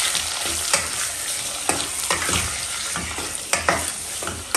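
Sausages and sliced garlic sizzling in oil in a stainless steel pot while a wooden spatula stirs them, knocking against the pot now and then.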